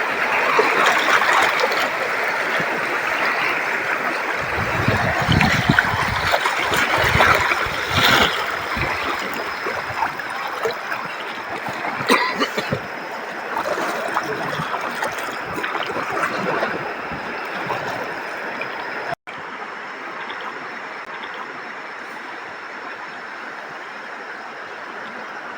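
River water rushing and splashing around a rafting boat, with sharper splashes and a few low thumps in the first seconds. It breaks off abruptly about 19 seconds in and gives way to a quieter, steady rush of water.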